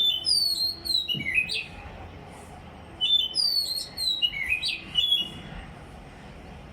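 A songbird singing the same short phrase twice, a quick run of high chirps falling in pitch, each phrase lasting about two seconds.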